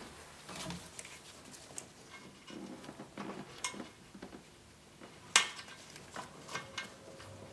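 Scattered metallic clicks and clinks of hand tools and fittings being worked, with one sharp clank about five seconds in.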